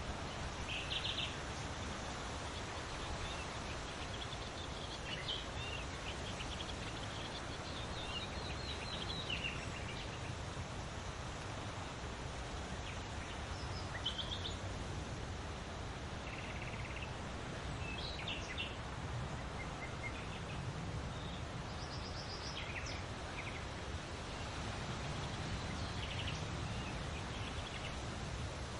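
Several birds calling and trilling now and then in short high phrases over a steady rushing noise bed, like wind or distant water.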